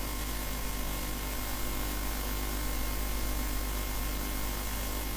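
Steady hiss with a low electrical hum and faint steady tones underneath: the noise floor of the microphone and sound system while no one is speaking.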